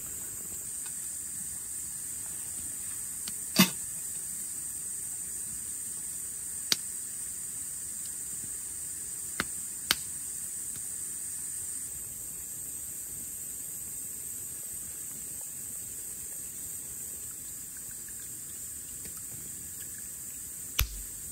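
Rain falling on a tent: a steady hiss with a few sharp taps of drops hitting the fabric, the loudest about three and a half seconds in.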